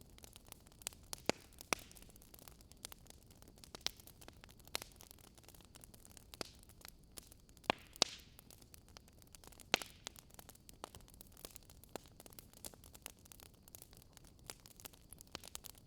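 Wood fire crackling: irregular sharp pops and snaps over a soft steady hiss, the loudest few about a second in and around the middle.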